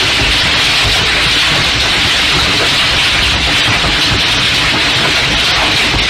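Hailstorm: hail and heavy rain pelting down in a loud, dense, steady hiss, with a low rumble underneath.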